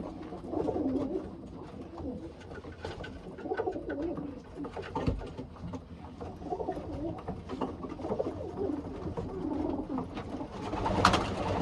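Racing pigeons cooing continually, with scattered light clicks and rustles and a louder burst of noise about eleven seconds in.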